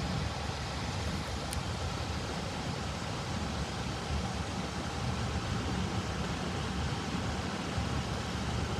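Union Pacific local freight train passing the crossing: a steady rumble with even rolling noise, no horn or bell.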